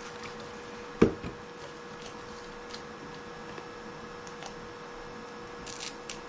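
Handling of sandpaper and the drill's sanding pad: one sharp knock about a second in, small taps and rubs, and a brief scratchy rustle near the end. A faint steady hum lies underneath.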